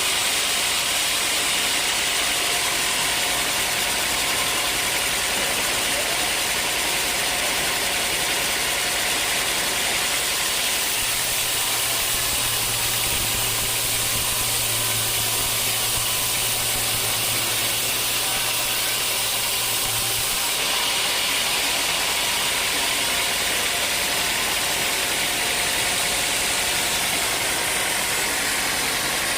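Sawmill sawing dry teak wood: a steady machine noise with a strong high hiss of the blade in the wood. A low hum joins in about a third of the way through and stops after about ten seconds.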